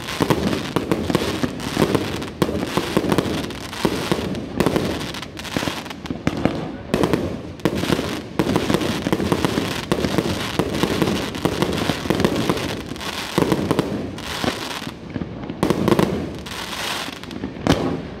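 Fireworks display: aerial shells and mortars firing and bursting in a dense, continuous barrage, the reports overlapping one another, thinning briefly about three-quarters of the way through.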